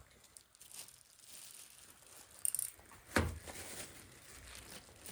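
Faint workshop handling noises: a brief high rustle about two and a half seconds in, then a single sharp knock just after three seconds.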